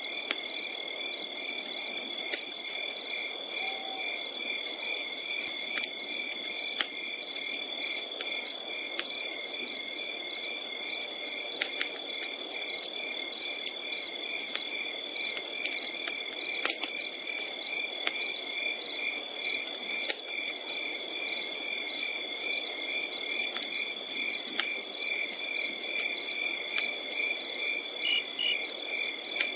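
Crickets and other insects chirping in an even, repeating rhythm over a constant high insect drone, with scattered sharp crackles and a soft hiss from a campfire.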